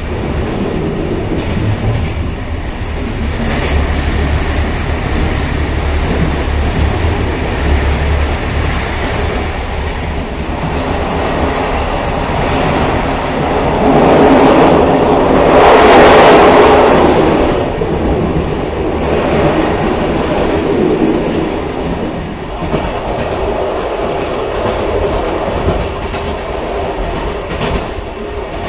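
Railcar running along the track, a steady rumble with clickety-clack of the wheels, swelling louder for a few seconds about halfway through.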